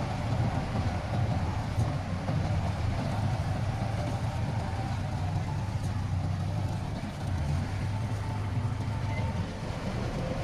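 Heavy diesel machinery running steadily with a low, even engine rumble.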